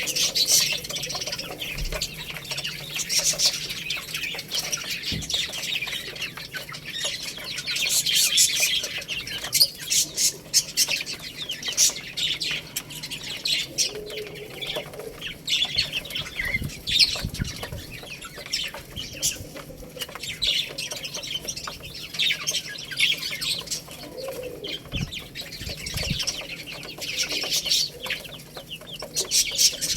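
A flock of baby chicks peeping continuously, many short high-pitched chirps overlapping, with a few brief low thumps scattered through.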